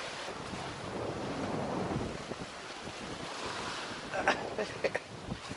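Strong wind of about 30 knots buffeting the microphone, with waves and water rushing past a sailing yacht's hull. A few short, sharp sounds come about four to five seconds in.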